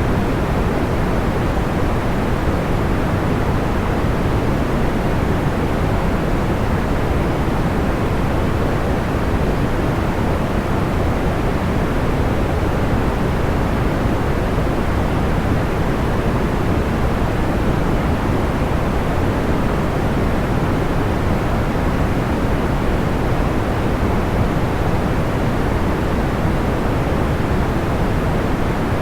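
Steady white-noise sleep sound: an even, unchanging rushing noise weighted toward the low end, with no separate crackles or pops.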